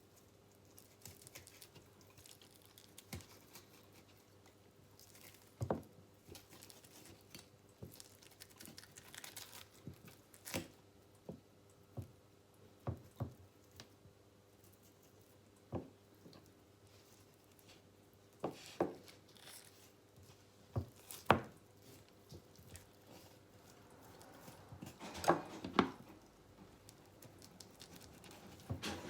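Knife slicing through a partly frozen venison loin on a cutting board: scattered sharp knocks of the blade on the board, with soft scraping and tearing between them.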